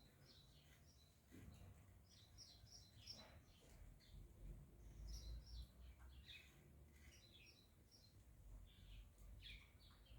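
Saffron finches giving short, faint chirps in scattered clusters.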